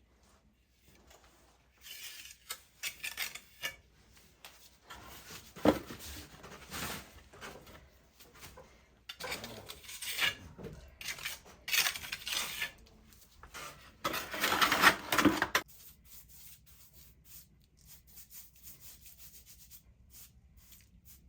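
Trowel scraping and spreading repair mortar in irregular strokes, a grainy rubbing scrape with a few sharper scrapes; the longest and loudest stroke comes near the middle-late part, and it falls quiet for the last few seconds.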